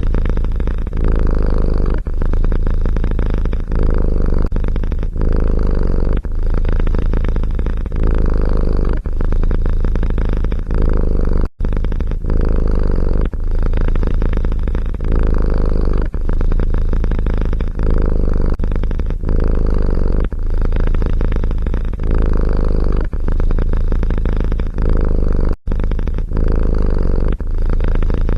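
Domestic cat purring loudly close to the microphone, a continuous rumble broken by short dips about once a second. The sound cuts out for an instant twice.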